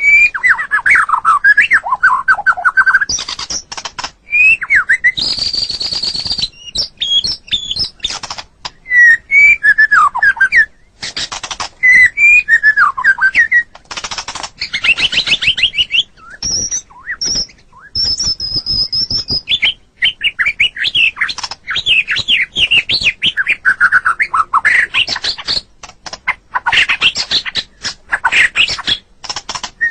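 White-rumped shama singing a long, varied song: gliding whistled phrases, rapid runs of repeated notes and a brief harsh phrase, with a held high whistle partway through.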